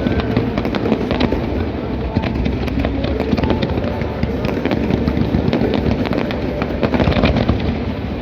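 Aerial fireworks going off in quick succession, a dense run of bangs and crackles, with music playing underneath.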